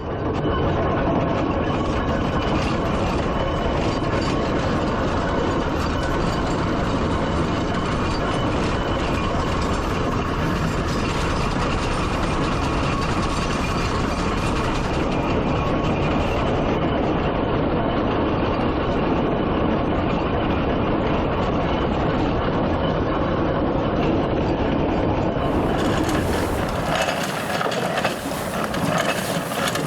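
Steam traction engine on the move, its gearing and motion work giving a steady mechanical clatter. The sound changes character near the end.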